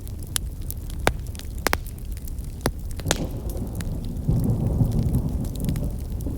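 Wood campfire crackling, with sharp irregular pops over a steady low rumble. From about three seconds in, a louder low rushing sound swells up, then eases off near the end.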